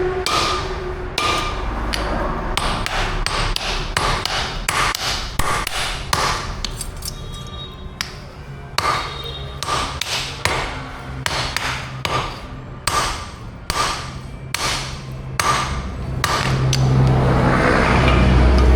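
Blacksmith's hammer striking steel on an anvil in a long run of irregular blows, about two to three a second, each with a short metallic ring. The blows stop near the end.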